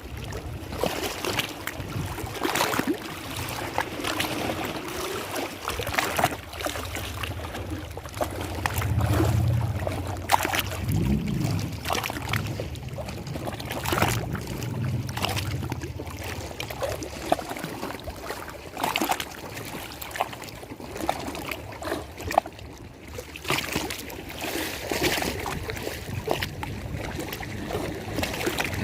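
Lake water lapping and splashing in irregular small splashes. A low hum runs underneath from a few seconds in until about halfway through.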